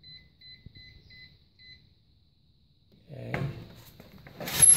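Dishwasher control-panel buttons beeping as they are pressed: a quick run of short electronic beeps, about three a second, stopping about two seconds in. Near the end comes a loud, brief burst of noise.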